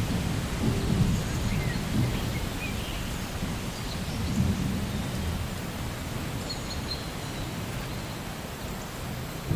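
Steady rain with a low rumble of thunder that swells and fades several times.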